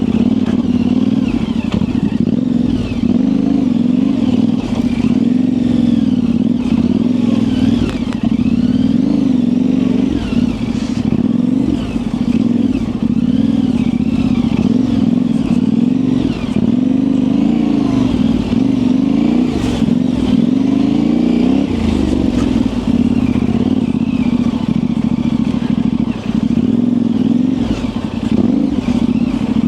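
Yamaha Ténéré 700's parallel-twin engine running at low revs on tight trail, its pitch rising and falling with constant small throttle changes, with occasional knocks and rattles from the bike over the ground.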